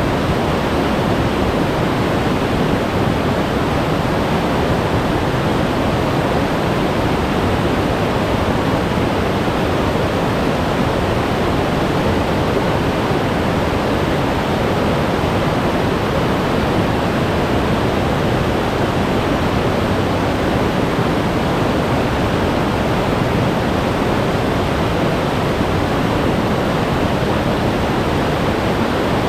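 Glacier-fed mountain stream of meltwater rushing steadily over rocks, a loud, even rush of water.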